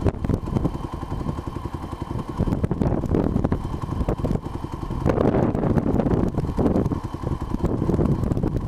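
Small Honda 70cc four-stroke single-cylinder dirt bike engine running in gear, getting louder about five seconds in.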